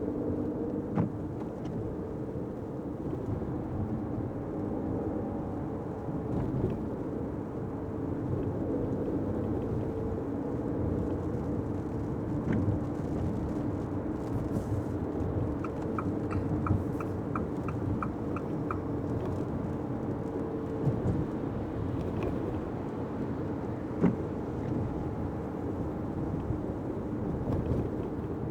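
Fiat 500X driving on wet city streets, heard from inside the cabin: steady engine and tyre noise with a few scattered knocks. Just past the middle, about ten ticks of the turn-signal indicator, roughly three a second.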